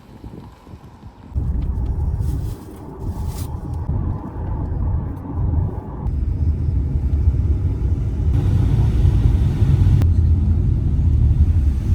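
Low, steady rumble of a car driving, starting suddenly about a second in.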